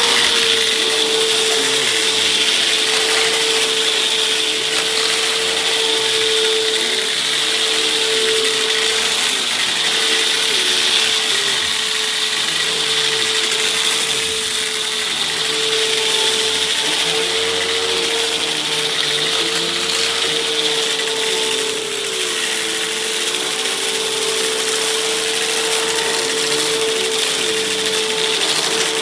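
Hoover vacuum cleaner running steadily, its motor giving a constant whine over a rushing airflow hiss.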